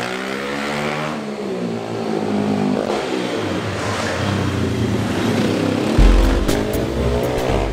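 Pit bike engine revving, its pitch falling in the first second and then climbing again as the throttle opens. About six seconds in, a pounding low beat of music comes in over it.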